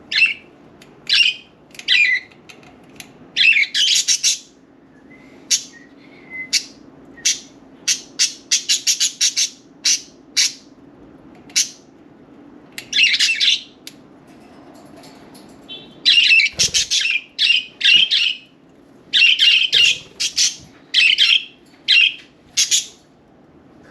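Budgerigars chirping and squawking: a string of short, sharp calls, with a quick run of calls midway and a busier stretch of calls in the second half.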